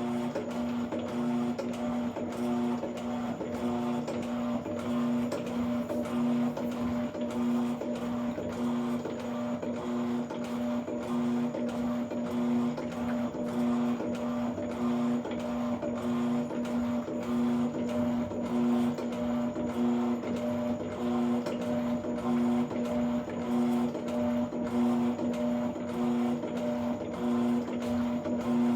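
Electrolux LAC13 washing machine running: a steady motor hum that pulses in a regular rhythm throughout.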